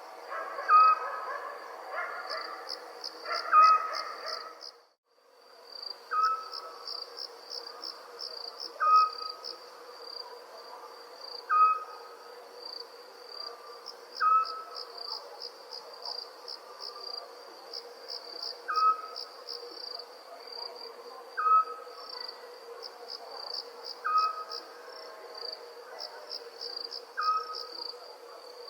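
Crickets chirping in a steady pulsing chorus while an owl gives a short single hoot every two to three seconds. The sound cuts out completely for about a second near five seconds in.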